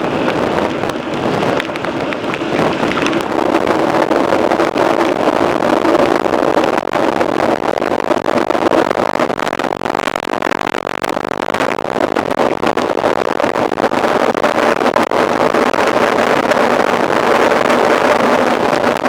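Wind rushing over the microphone and the tyres rolling as a mountain bike is ridden at speed, making a loud, steady noise with a low hum in it.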